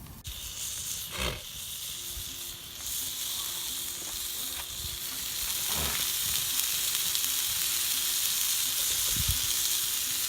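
Food sizzling as it fries, the hiss growing louder about halfway in, with a few soft knocks.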